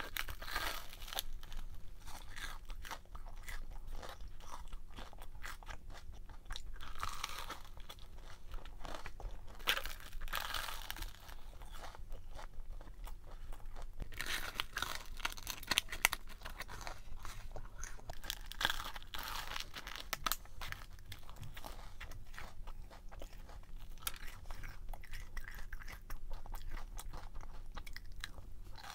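A person chewing and biting crunchy food close to the microphone: a continuous run of crisp crunches, with a couple of sharper, louder bites.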